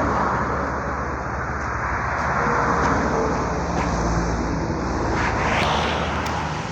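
Steady road traffic noise from vehicles passing on the road.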